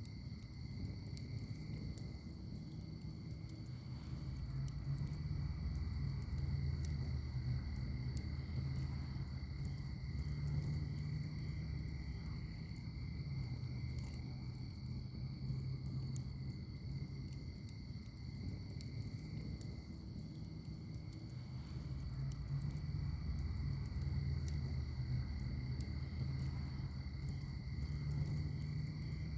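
Wood fire in a fire pit burning with a steady low rumble of flames and frequent small crackles and pops. A steady high insect trill runs underneath.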